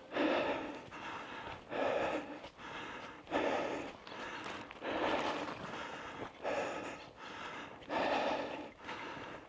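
A hiker breathing hard while walking, a loud breath about every one and a half seconds.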